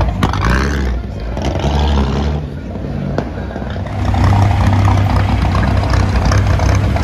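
Engine of a 1926 Talbot 11-Six vintage racing car running close up with a deep, low exhaust rumble, growing louder about four seconds in.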